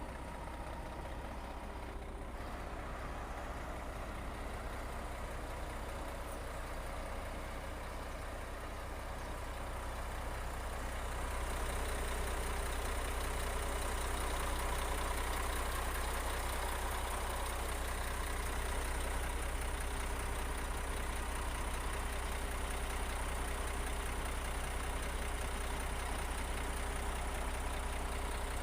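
Heavy construction machine's engine running steadily with a deep low drone, growing somewhat louder about a third of the way through.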